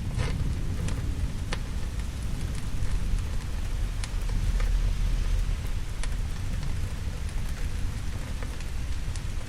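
Steady heavy rain with thunder rumbling low underneath, the rumble swelling about halfway through, and scattered sharp ticks from drops.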